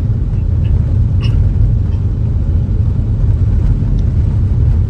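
Steady low rumble of a car driving along the road, engine and road noise without change.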